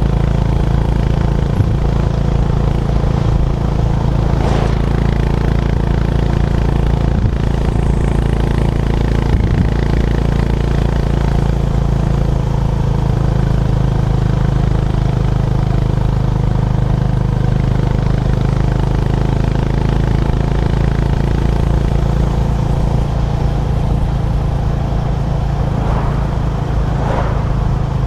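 Honda GB350's air-cooled single-cylinder engine running steadily under way, its pitch nearly constant.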